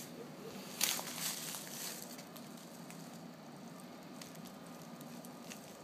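Faint rustling and crackling, with one sharper crunch about a second in and scattered light clicks after it.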